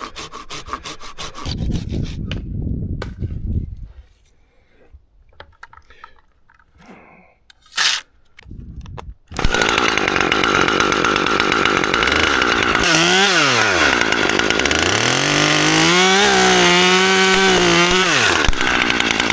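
A few rhythmic handsaw strokes at the start, then a chainsaw starts about nine seconds in and runs loud to the end, its engine revving up and down as it cuts through a broken pine branch.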